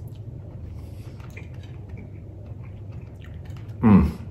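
A man chewing a mouthful of rice and sauce: small wet mouth clicks over a low steady hum, then a short voiced sound near the end.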